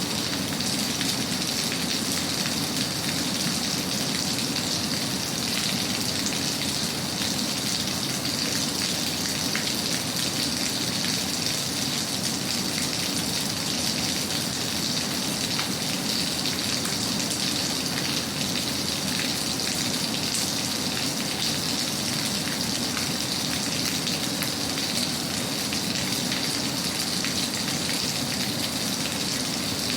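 Steady rain falling, an even, unbroken patter with no pauses or sudden events.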